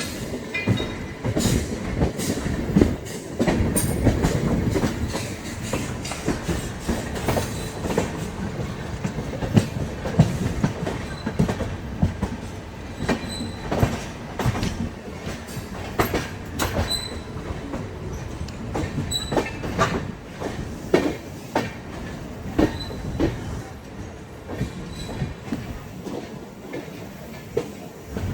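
LHB passenger coaches of an Indian Railways express running on the track: a steady rumble with many irregular sharp clicks as the wheels pass over rail joints, and short high squeaks now and then. The rumble is louder in the first half and eases off after about twelve seconds.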